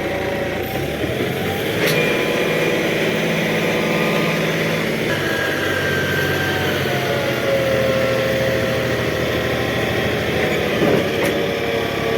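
John Deere 5210 tractor's three-cylinder diesel engine running steadily, picking up revs about a second in.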